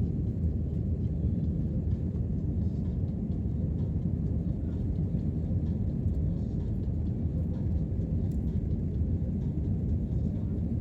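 Airliner cabin noise: a steady low rumble of the engines and airflow heard from inside the passenger cabin.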